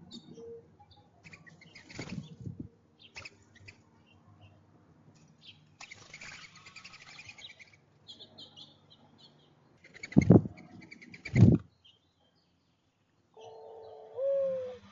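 Small birds' wings flapping right at the feeder's microphone: two loud whooshes about a second apart past the middle, with an earlier rustle and faint chirps. A low steady tone comes in near the end.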